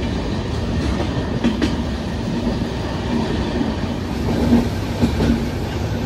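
Passenger train running on the line, heard from inside the coach: a steady rumble of wheels on rail, with a few louder clacks over rail joints.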